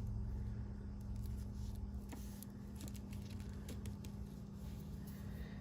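Faint handling of fabric and card stock on a craft table: soft scratches and a run of small clicks and taps through the middle seconds, over a steady low hum.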